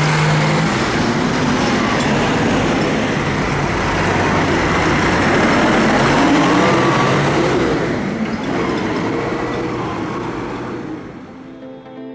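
Tractor engine running, with a dense mechanical noise that fades away over the last few seconds.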